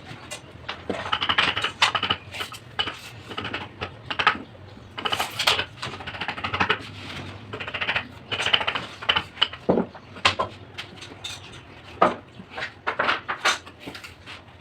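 Irregular tapping and clattering of hand tools: sharp knocks and clicks at uneven intervals, with a few louder strikes.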